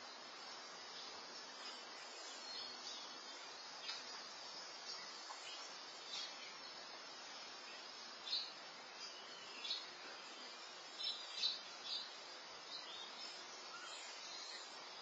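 Faint outdoor ambience picked up by a security camera's microphone: a steady hiss with scattered short, high bird chirps, most of them in the second half.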